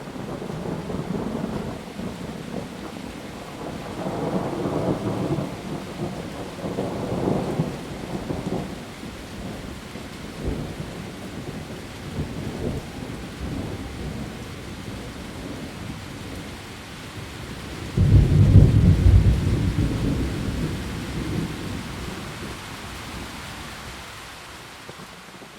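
Heavy rain falling steadily on foliage in a thunderstorm, with rolling thunder rumbling in the first half. A sudden loud thunderclap comes about two-thirds of the way through and rumbles away over several seconds.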